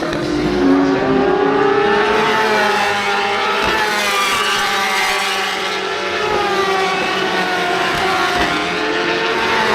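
Racing motorcycle engines running hard on track, several at once, their pitch rising and falling as they accelerate and ease off.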